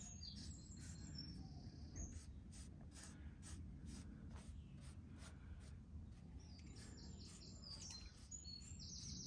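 Faint birdsong: a small bird's rapid, high chirping trills, repeated a few times, over a low steady background rumble.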